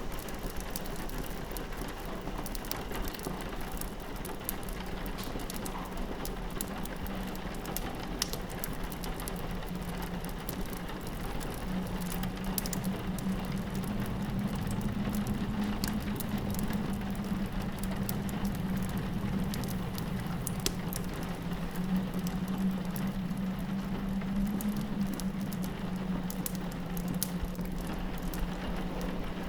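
Rain pattering steadily on a window, with the small sharp crackles of a wood fire scattered through it. A low rumble swells up through the middle and eases off again near the end.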